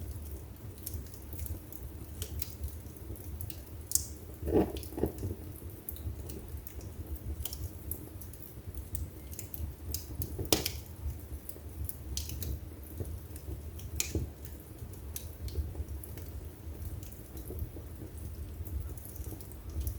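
Wood fire crackling in a fireplace: irregular sharp snaps over a low steady rumble of the flames, with two louder pops, about a quarter of the way in and about halfway through.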